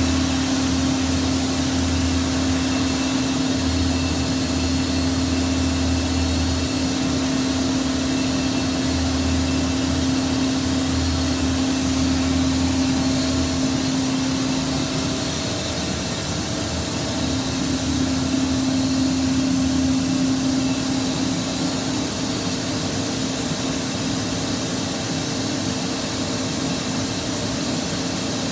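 Boiler being fired: a steady rushing roar with a steady hum through it, and a low throb that pulses on and off for about the first half before stopping.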